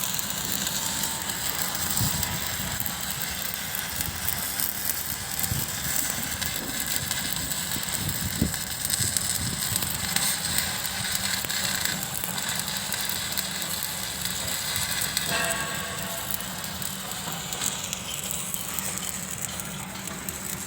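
Electric arc welding on steel, crackling and sizzling steadily, with a few scattered knocks.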